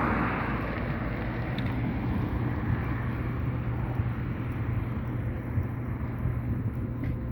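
Road traffic: a steady rumble of passing vehicles, loudest at the start as one goes by, then easing to a constant drone.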